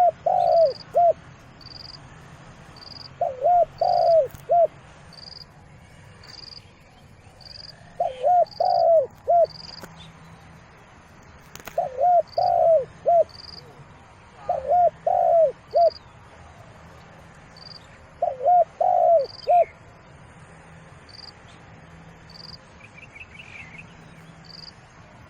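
Spotted dove cooing: six phrases of three or four low coo notes each, repeated every few seconds. A short high chirp repeats about once a second behind it.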